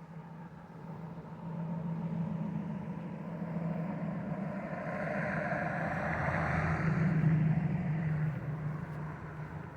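A motor vehicle's engine running with a steady low hum, growing louder to a peak about seven seconds in and then easing off, like a vehicle passing by.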